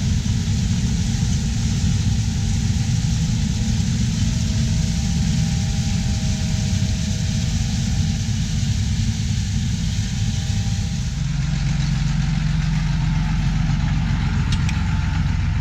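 Diesel engine of harvest machinery running steadily, its note shifting a little about eleven seconds in.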